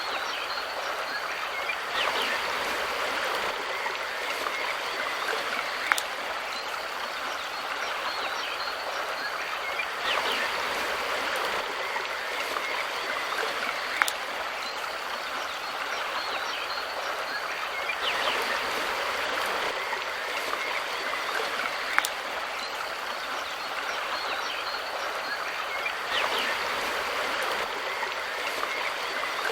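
River water flowing in a steady rushing stream, swelling a little about every eight seconds, with a sharp faint click recurring at the same spacing.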